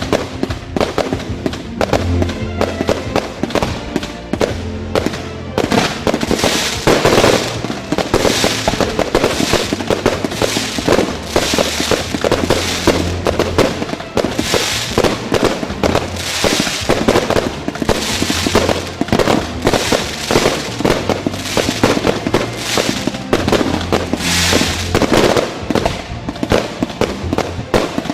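Fireworks display firing continuously: rapid shots and crackling bursts in dense volleys, with swells every couple of seconds. Music with a steady bass line plays underneath.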